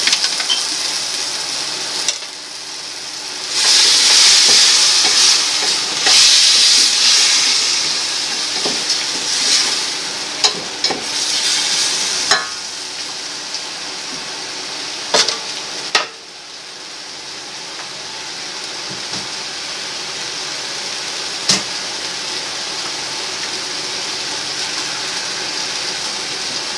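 Chicken pieces sizzling in a stainless steel pan with fish sauce just added, stirred with a wooden spoon. The sizzle swells loudest a few seconds in. The spoon knocks sharply against the pan a few times, and the sizzle then settles to a steady, quieter hiss.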